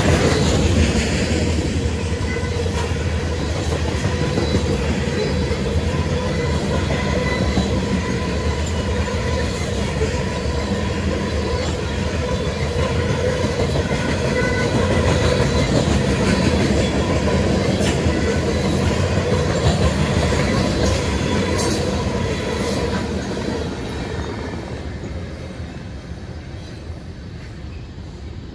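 Freight train cars rolling past at speed: a steady rumble of wheels on rail with a thin, steady ringing squeal from the wheels and a few sharp clanks. The sound fades away near the end as the train moves off.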